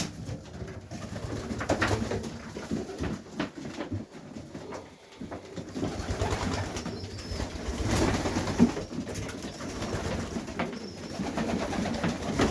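Highflyer pigeons cooing continuously, with scattered light knocks among them.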